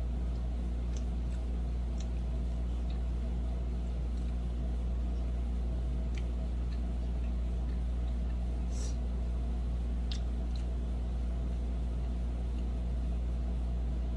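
A steady low droning hum, with a few faint clicks and small smacks of eating scattered through it.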